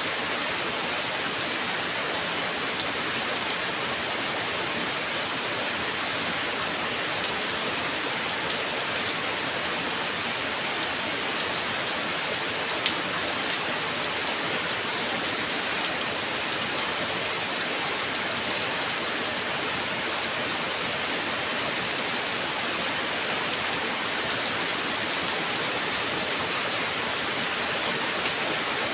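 Steady heavy rain falling and pattering on surfaces, with the odd louder drop tick standing out now and then.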